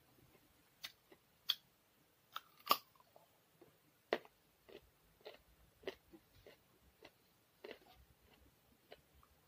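A person eating: chewing and crunching food, a string of irregular sharp crackles and clicks, the loudest nearly three seconds in.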